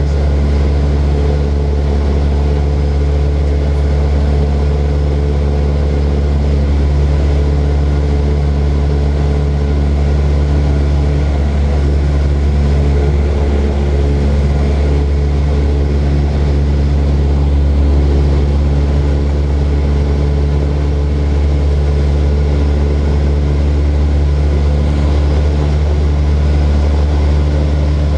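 Propeller aeroplane engine droning steadily, an even low hum with constant tones that neither rises nor falls, as in level cruise.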